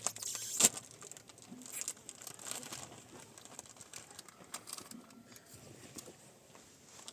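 Rustling and crinkling with scattered light clicks, a sharper click a little over half a second in being the loudest.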